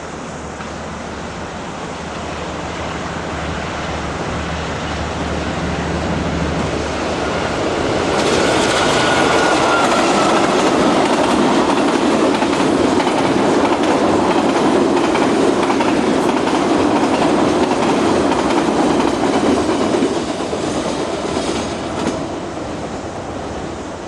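Freight train passing. A low locomotive hum builds for the first several seconds, then a loud rolling clatter of wagon wheels on the rails goes by with a brief falling squeal. After about twenty seconds it fades as the train moves off.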